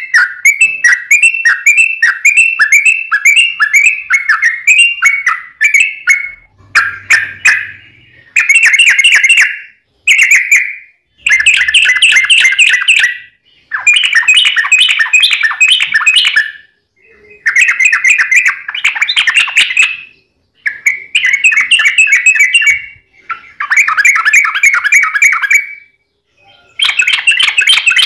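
Yellow-vented bulbul singing a long run of rapid, bubbly chattering phrases, one after another with short pauses between them.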